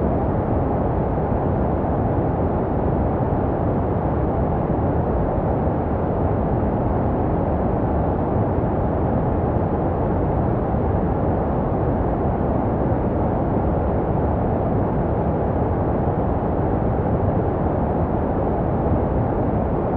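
Steady, unbroken white noise for baby sleep, dull and deep rather than hissy, with little treble. It is shaped to resemble the muffled sound a baby hears in the womb.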